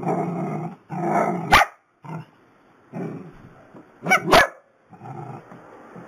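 Small dogs growling in rumbling stretches, with a sharp bark about a second and a half in and two quick barks near the four-second mark.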